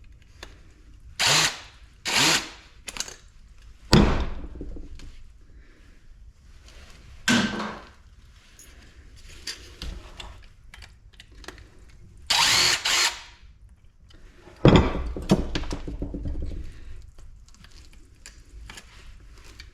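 Power drill/driver run in short bursts on stuck screws in an aluminum light fixture housing, one run about a second long near the middle. Two heavy thunks of the metal housing, about four seconds in and near fifteen seconds.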